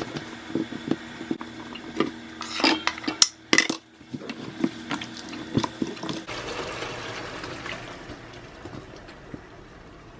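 Pot and utensils knocking and clattering, with liquid sloshing in a pot of curry chicken. About six seconds in, the knocks give way to a soft hiss that fades.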